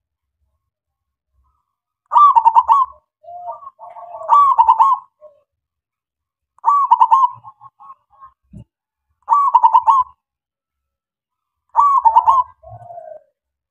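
Male zebra dove (perkutut) singing its cooing song in five short phrases about two and a half seconds apart. Each phrase is a quick run of coos, some followed by softer, lower trailing notes. It starts about two seconds in, after silence.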